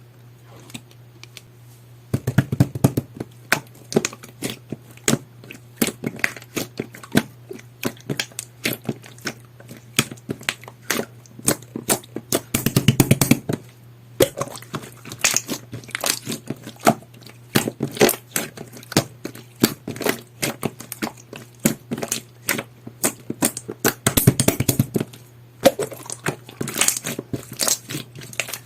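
Jelly-textured slime being squished, kneaded and stretched by hand, giving dense, irregular sticky pops and crackling clicks, with three heavier flurries of popping. A faint steady low hum sits underneath.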